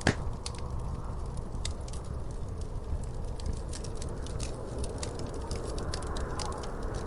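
Wood fire crackling in a fireplace: a steady low rumble of burning with frequent irregular sharp pops and snaps, one louder pop right at the start.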